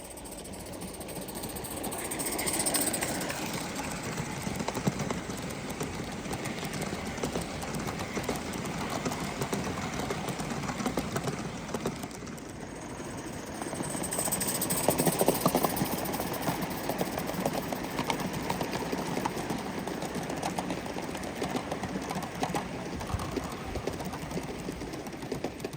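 Gauge 1 live steam model locomotive running on the track, its rapid exhaust beats and wheel clatter on the rails swelling as it passes, about three seconds in and again from about fourteen to sixteen seconds in.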